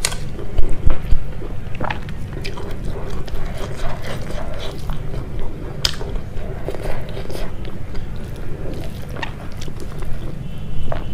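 Close-miked chewing and mouth sounds of a person eating rice and pork curry, with many short wet clicks scattered throughout and a few louder ones about a second in.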